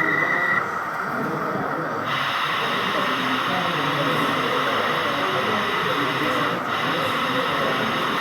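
Crowd chatter in an exhibition hall, with a steady hiss that comes in abruptly about two seconds in.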